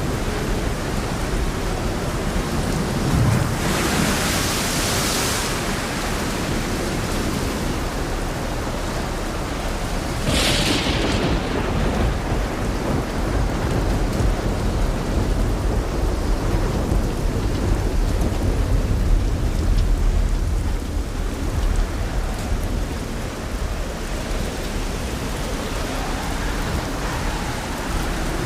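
Steady rain, with two brief hissing surges about four and ten seconds in and a low rumble swelling through the middle.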